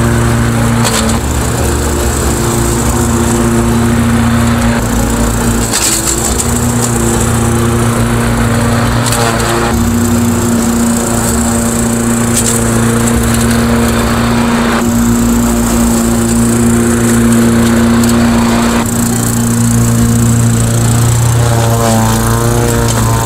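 Small single-cylinder lawnmower engine running steadily at constant speed.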